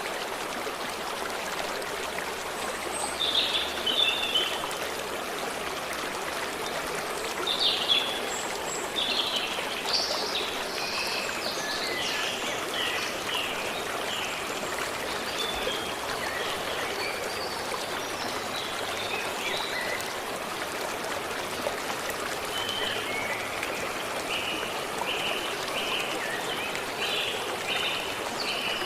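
A forest stream running steadily, with songbirds calling over it: a few calls about three seconds in, a longer run of calls from about eight to thirteen seconds, and a series of short repeated notes near the end.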